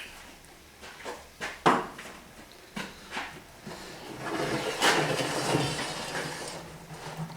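A few sharp knocks and clicks of hard parts being handled, then a few seconds of scraping or sliding.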